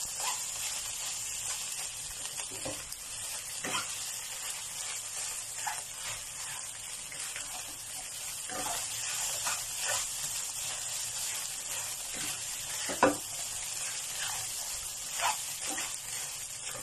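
Fried rice sizzling in a pan as it is stirred and turned with a plastic spatula, a steady hiss with scattered scrapes and knocks of the spatula on the pan; the loudest knocks come about thirteen and fifteen seconds in.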